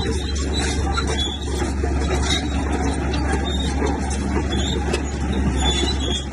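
Diesel engine of a heavy earthmoving machine running steadily under load, with scattered clanks and rattles over a constant low rumble.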